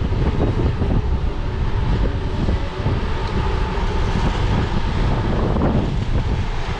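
Wind buffeting the microphone: a steady, loud rumbling noise that fluctuates in the lows.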